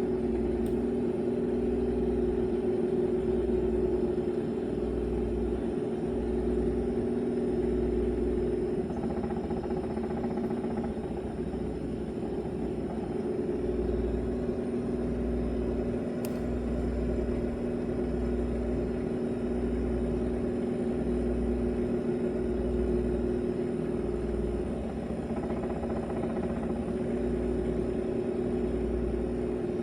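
Freezer running with a steady droning hum and a deep throb that pulses about once a second.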